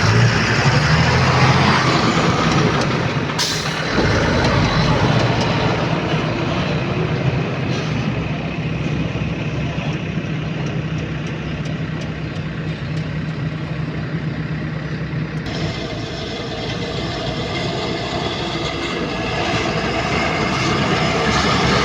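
Heavy diesel machinery engine running steadily under work, with a sharp knock about three and a half seconds in.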